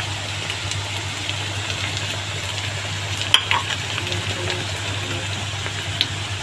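Freshly baked chicken sizzling in its hot pan over a steady low hum, with a sharp click about three seconds in and a smaller one near the end.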